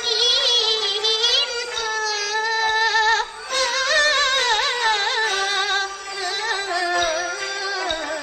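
Teochew opera music: a high melodic line with strong vibrato over the accompaniment, in phrases with short breaks.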